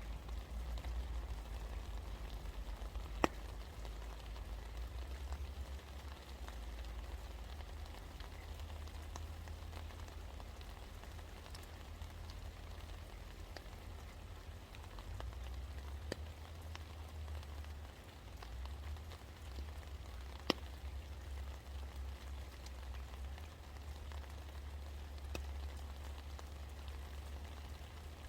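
Rain falling steadily, with scattered sharp drips striking a hard surface; two louder drip hits come about three seconds in and about twenty seconds in. A steady low rumble runs underneath.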